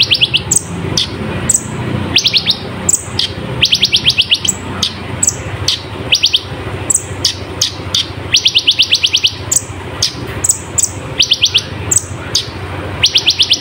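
Kolibri ninja sunbird singing: short bursts of very rapid, high, slightly falling trilled notes, each burst about half a second long, mixed with sharp single high chips, over a steady low hum.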